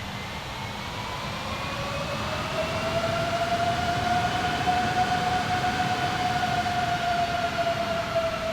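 Airbus A330-300's jet engines passing: a loud rush of engine noise with a high whine that rises slightly in pitch, holds, then drops toward the end as the aircraft goes by.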